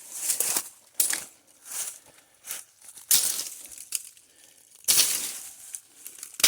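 Machete strokes hacking through brush and thorny stems: about five sharp, irregular strikes, each with a brief swish and rustle of cut vegetation.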